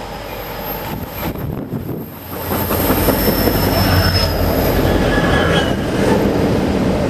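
Union Pacific autorack freight train passing close by: a dense rumble of locomotives and rolling railcars, with thin, high wheel squeals above it. It gets noticeably louder about two and a half seconds in.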